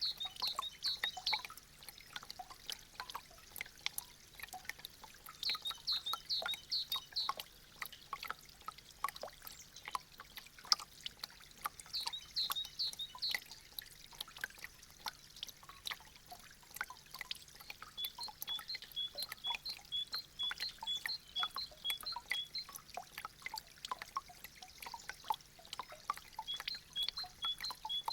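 Meltwater dripping and trickling off melting icicles: many quick, irregular drips. A high, repeated chirping comes and goes behind the drips.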